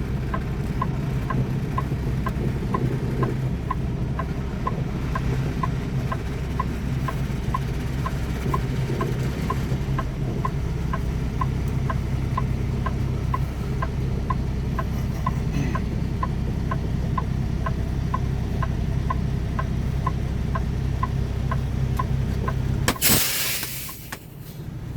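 Semi-truck engine running, heard from inside the cab, with the turn signal ticking steadily about twice a second. Near the end the ticking stops and there is a short, loud burst of hiss.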